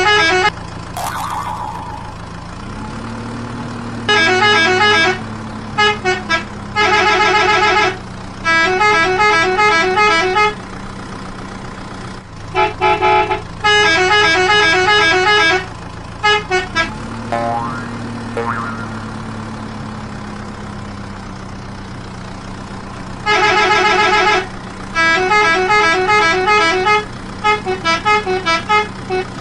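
Vehicle horn sound effect honking in runs of quick toots, over a steady engine drone that climbs in pitch twice and then holds. The horn-and-engine pattern repeats about every 14 seconds, as a looped track.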